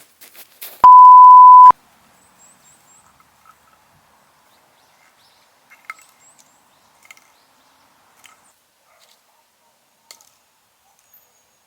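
A single loud, steady electronic beep at one pitch, lasting just under a second, followed by faint scattered clicks and light handling sounds.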